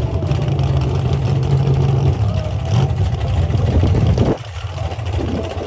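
Drag race car engines running at a dragstrip, a steady low engine note that turns uneven, briefly dropping in loudness about four seconds in.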